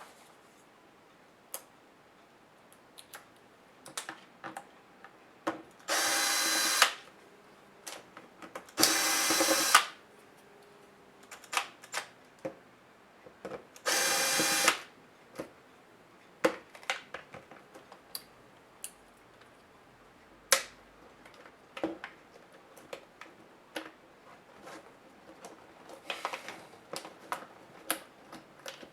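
Small electric screwdriver running in three short bursts of about a second each, undoing laptop screws, with light clicks and taps of small plastic and metal parts being handled in between.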